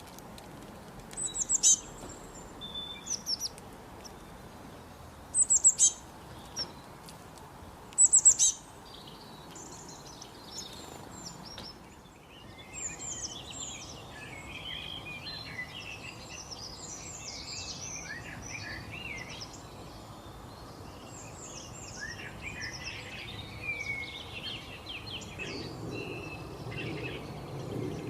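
Wild birds calling and singing: three loud bursts of high, falling calls in the first half, then, after a break about twelve seconds in, a busier chorus of many overlapping chirps and twitters over a steady outdoor background noise.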